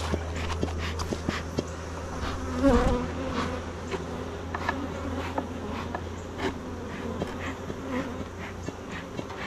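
Honeybees buzzing over an opened hive, a steady hum with scattered light clicks, swelling louder for a moment about three seconds in.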